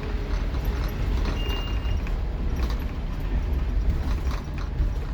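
Scania K230UB Omnilink bus's five-cylinder diesel engine running under way, a steady low drone inside the bus, with the body and fittings rattling and creaking in frequent short clicks.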